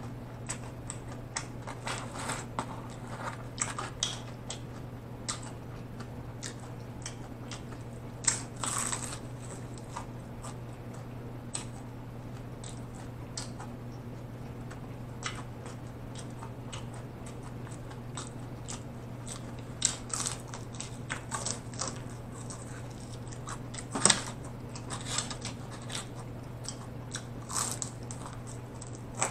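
Close-miked chewing and biting of crispy fried chicken: wet mouth sounds and crunches of the breading, with a few louder crunches scattered through, over a steady low hum.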